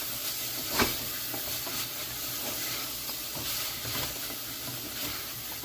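Onions, mushrooms and garlic sizzling in a pot while being stirred, with one sharp knock of the stirring utensil against the pot about a second in.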